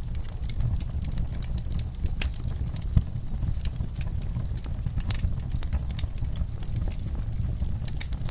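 Fire in a fireplace crackling and popping, irregular sharp snaps over a steady low rumble of the flames, with one louder pop about three seconds in.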